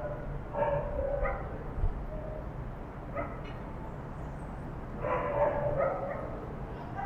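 Dog howling in drawn-out pitched calls: a pair near the start, a brief one about three seconds in, and a longer one about five seconds in.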